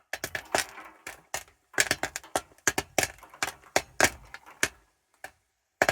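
A rapid, irregular series of sharp clicks and knocks, like small hard objects clattering together, thinning out to a few isolated clicks near the end.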